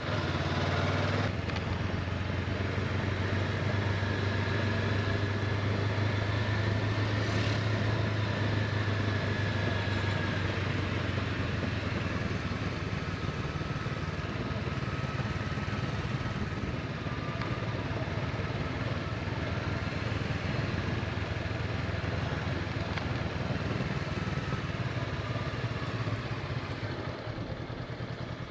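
Honda CB500X parallel-twin engine running steadily while riding, with wind and road noise, dying down over the last couple of seconds.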